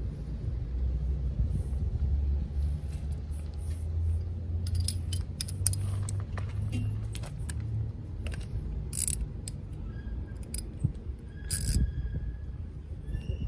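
Scattered metallic clinks and taps, some ringing briefly, from metal tools and parts being handled, over a steady low rumble. The clinking is busiest from about a third of the way in until near the end.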